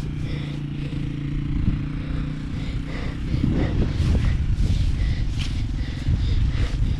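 Yamaha XT225 dirt bike's single-cylinder engine running steadily, then louder and rougher from about three seconds in.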